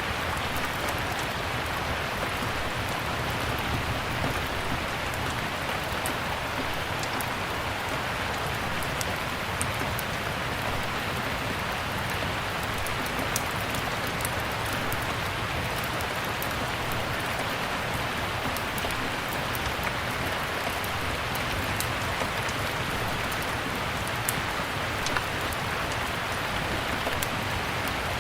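Steady rain falling, an even hiss, with scattered small sharp crackles and pops from a wood fire in a fireplace.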